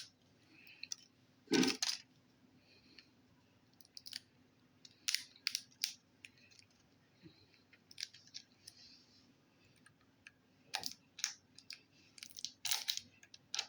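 Irregular clicks and crinkles of plastic slime containers and their plastic wrapping being handled and opened, with a few sharper snaps about a second and a half in, near the end, and around five seconds in.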